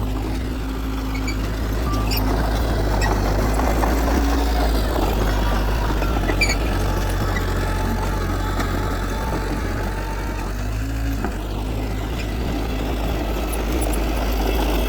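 Heavy diesel earthmoving machinery running steadily, a low engine drone with a few faint ticks.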